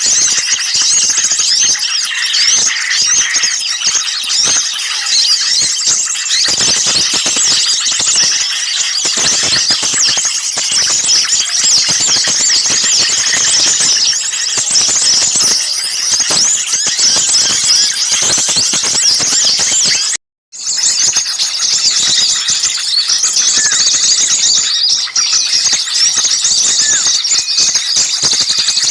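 A dense, noisy chorus of many small songbirds chirping and twittering over one another in high-pitched, rapid calls: a bird-lure recording of agitated small birds meant to draw other birds in. The sound cuts out briefly about twenty seconds in, then resumes.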